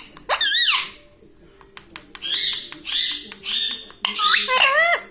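Ringneck parrot calling and chattering: a run of short, warbling calls that slide up and down in pitch, with brief pauses between them. The last call, near the end, is the longest.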